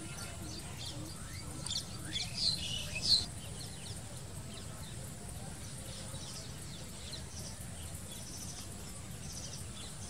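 A bird gives a quick series of short, high-pitched chirps about two to three seconds in, the last one the loudest, over a steady low rumble of background noise.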